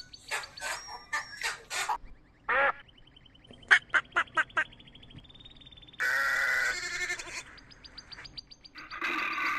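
A series of short, sharp bird calls, then a mallard hen quacking about five times in quick succession about four seconds in. A sheep bleats about six seconds in and again near the end.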